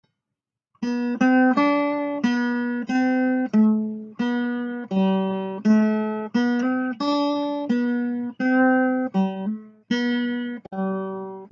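Intro music of acoustic guitar: a run of plucked notes and chords, each ringing and fading, starting about a second in.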